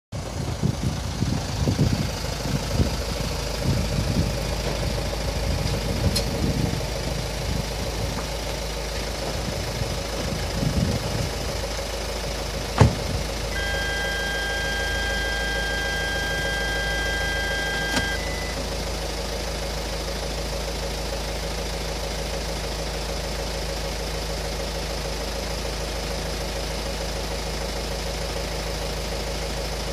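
Hyundai Tucson ix engine running, with uneven low rumbling for the first dozen seconds before it settles to a steady idle. About 13 seconds in there is a sharp click, followed by a steady tone lasting about four and a half seconds.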